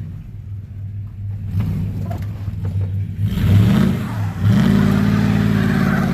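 Vehicle engine idling, then revving up about three seconds in, dropping briefly, and held at high revs.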